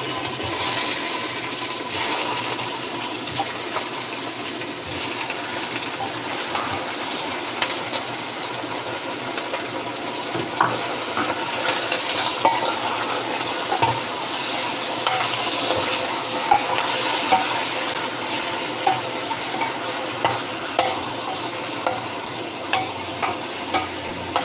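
Food frying in hot oil in a stainless steel pot: a steady sizzle as pieces are put in and moved about by hand, with occasional light clicks.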